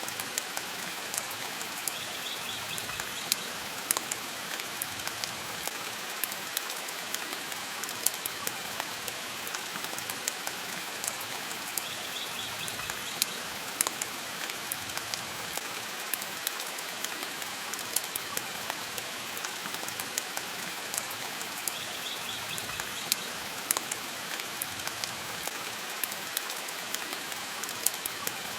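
Steady rain with a crackling wood fire: an even hiss dotted with frequent sharp pops and crackles. A faint short high chirp recurs about every ten seconds.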